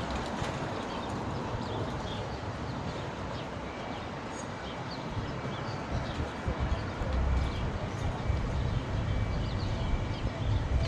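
Angeles Flight funicular car running on its track: a steady rumble that grows louder and more uneven about six seconds in.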